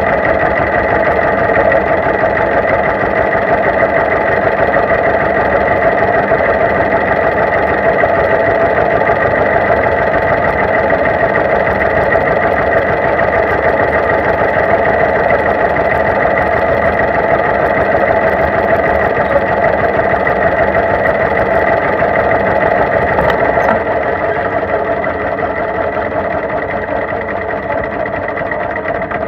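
Tractor engine running steadily, getting a little quieter over the last few seconds.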